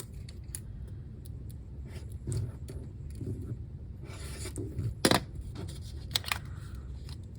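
Paper rustling and sliding as small handwritten paper notes are handled and tucked into the flaps of a paper envelope, with scattered light clicks and one sharp tap about five seconds in.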